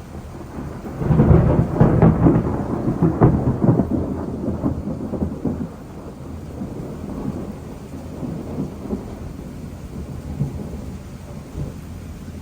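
Thunder: a loud crackling peal breaks about a second in, stays strong for about three seconds, then rolls on as a lower, fading rumble.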